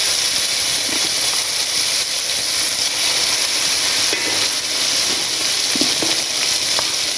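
A wet ground paste of pirandai, mint and coriander sizzling loudly in hot oil with popped mustard seeds, stirred with a spatula: a steady frying hiss with scattered small pops and clicks.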